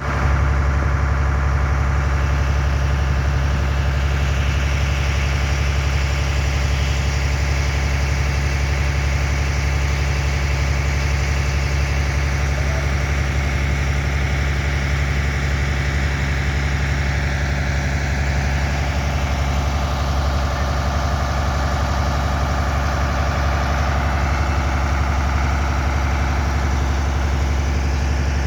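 An engine running steadily at idle, a constant low drone that holds unchanged throughout.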